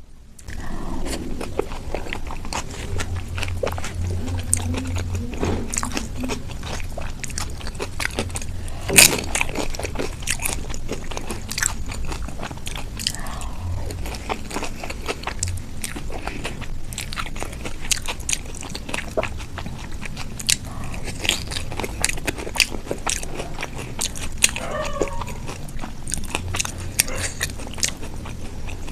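Close-miked eating of dahi puri: crisp puri shells crunching and being chewed, many crackles throughout, with one loud crunch about nine seconds in.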